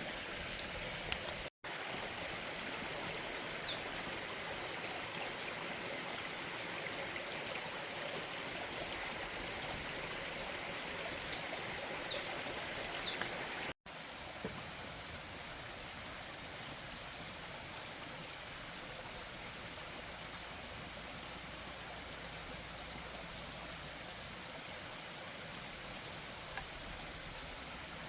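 Outdoor ambience: a steady rush like running water, with a continuous high insect buzz over it. A few light knocks come a little before halfway, and the sound drops out for an instant twice.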